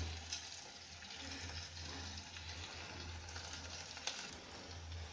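Chopped vegetables sizzling in hot oil in a kadhai over a high gas flame: a steady, faint hiss.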